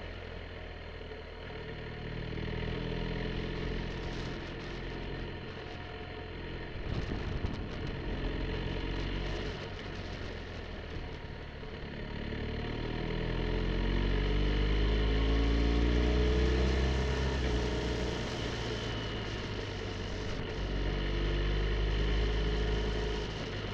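BMW R1250 GSA's boxer-twin engine running under way, its pitch rising and falling with the throttle and climbing steadily as the bike accelerates about halfway through, and again near the end.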